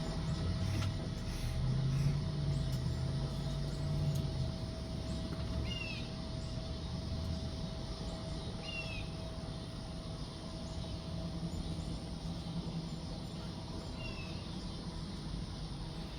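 Hummingbirds' wings humming, shifting in pitch and loudest in the first few seconds. Three short, high, falling chirps come about six, nine and fourteen seconds in.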